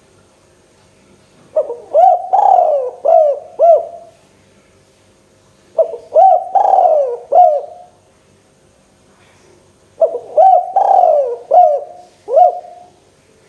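Spotted dove (tekukur) cooing: three phrases of about five low, rolling notes each, spaced roughly four seconds apart.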